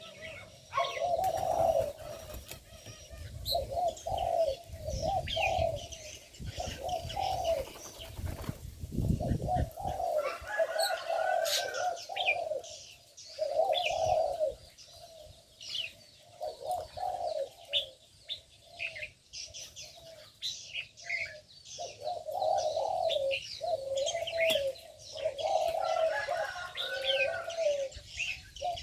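Aviary doves cooing over and over in short repeated phrases, with small birds chirping and twittering in high short notes among them.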